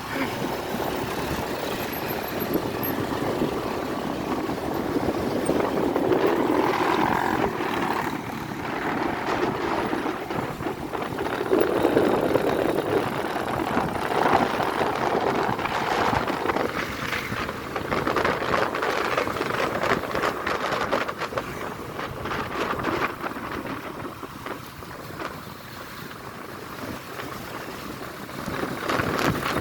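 Motorcycle riding along, its engine mixed with wind rushing over the microphone; the sound swells and eases over several seconds as the ride goes on, and is a little quieter a few seconds before the end.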